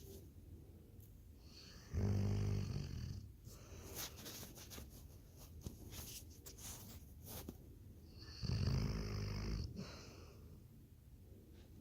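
Labrador retriever snoring in its sleep: two loud snores about six seconds apart, each lasting about a second, with quieter breathing and faint clicks between them.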